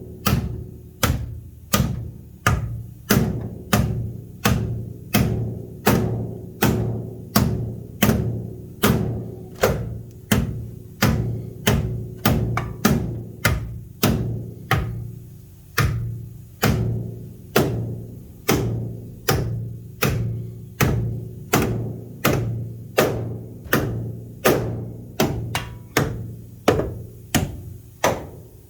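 Hammer blows on a Jeep Comanche's sheet-metal fender, folding it back to clear 33-inch tires. The strikes are sharp and evenly paced, about three every two seconds, each with a short low ring from the panel.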